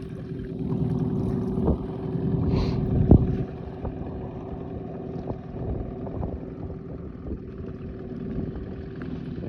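Sea Pro outboard motor running at low speed with a steady hum, held back while the new engine is run in, over water and wind noise. A sharp knock about three seconds in.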